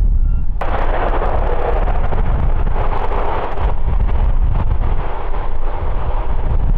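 Airbus A350's Rolls-Royce Trent XWB jet engines roaring, over a heavy low rumble with wind buffeting the microphone; the roar comes in abruptly about half a second in.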